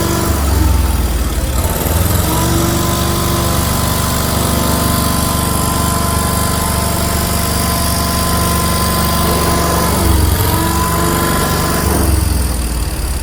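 A vehicle engine running steadily with a low rumble and a held whine. The pitch shifts briefly about two seconds in and again near ten seconds.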